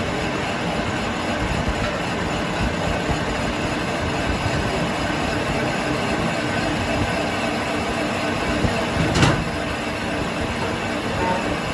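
Steady, clattering mechanical running noise of workshop machinery, with one sharp clank about nine seconds in.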